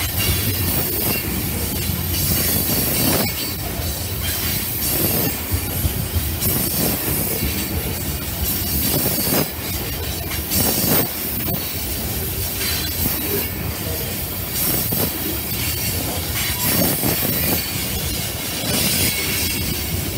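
Tank cars of a freight oil train rolling past close by on a curve: a steady clatter and rumble of steel wheels on rail, with uneven high-pitched wheel squeal and a few sharp knocks from wheels crossing rail joints.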